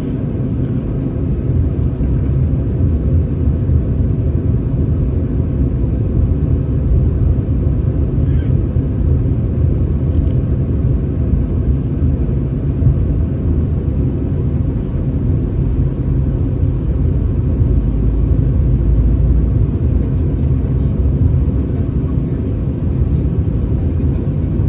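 Steady low rumble of an Airbus A319's CFM56 engines and airflow heard from inside the passenger cabin.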